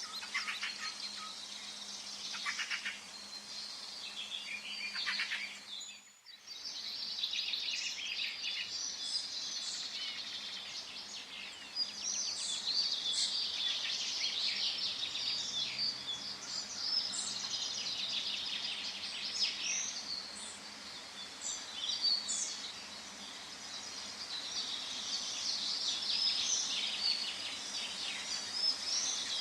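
Forest bird chorus: many birds chirping and trilling at once over a faint steady background hiss, with a brief drop-out about six seconds in.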